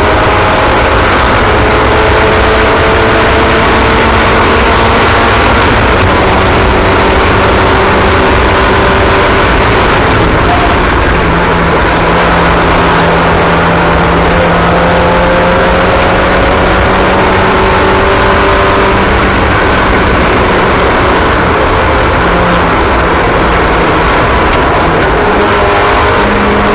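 Several race car engines running together on track, each holding its own pitch, the pitches slowly rising and falling over a loud, constant rumble.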